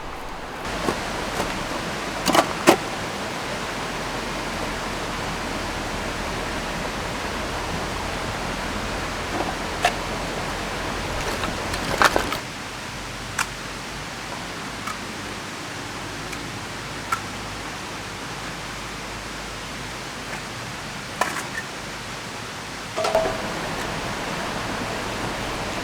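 Steady rushing of a river and rain, with a scattering of short clicks and knocks; the rushing drops a little in level about halfway through.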